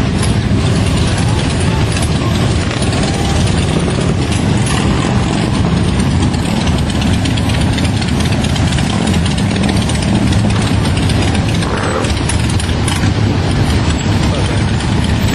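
Motorcycle engine running steadily, with a fast mechanical clatter.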